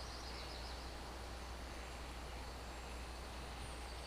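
Faint steady hiss with a low hum underneath, and faint high chirping in the first second and again near the end.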